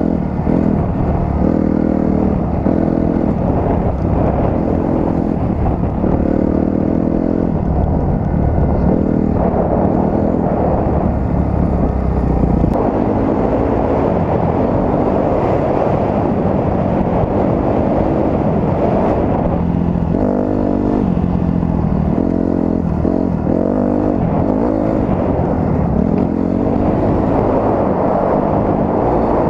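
Dirt bike engine running under way, its pitch rising and falling in steps as the rider works the throttle and gears, with a steady rumble of wind and terrain noise.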